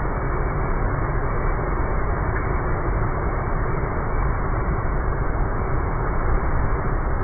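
Strong gale wind buffeting the microphone: a steady, loud rushing noise with a heavy low rumble.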